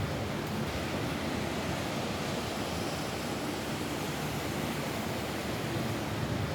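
Steady rain falling on a roof, an even wash of noise without separate drops standing out.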